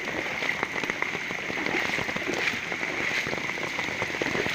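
Heavy rain falling steadily, a dense patter of drops over the rush of floodwater runoff pouring into a pond.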